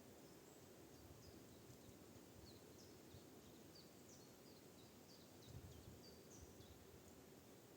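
Faint small-bird calls in a forest: a scattering of short, thin, high chirps, each falling slightly in pitch, over a faint low rumble.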